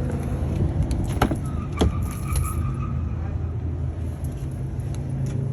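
A car engine idling with a steady low hum. Two sharp knocks come a little over a second in, about half a second apart.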